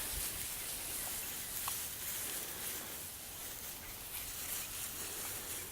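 Faint outdoor farmyard ambience: an even hiss with a low rumble and a few small ticks, with no animal calls.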